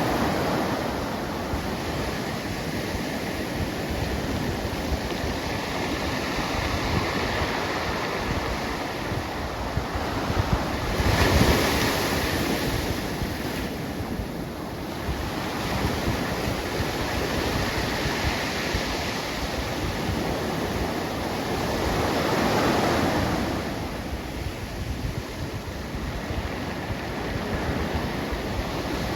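Pacific Ocean surf: waves breaking and washing in as a continuous rush, surging louder about eleven seconds in and again a little past twenty seconds, with wind on the microphone.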